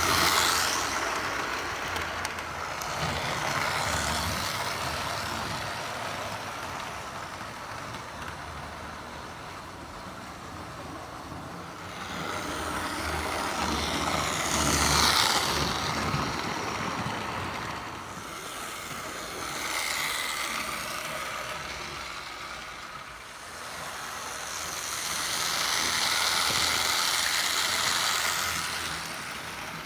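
Vintage Lima 0-4-0 model train locomotive running on its track, freshly cleaned and now running well: a whirring of motor and wheels that grows louder and fades again several times as it passes by.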